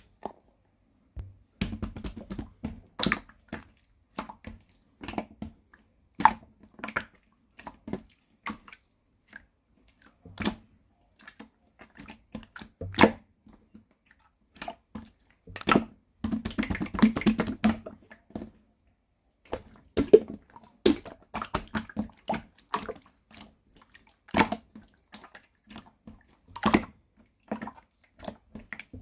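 Hands playing with a glossy white slime: irregular wet squelches, sticky clicks and pops, with a denser run of crackling about two-thirds of the way through.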